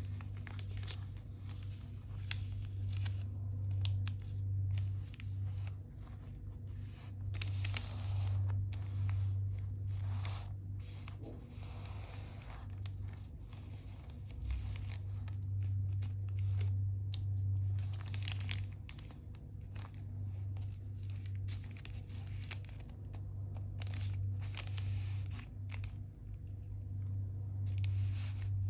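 A sheet of paper being folded and creased by hand for a paper airplane, with repeated crinkling and rustling strokes over a steady low hum.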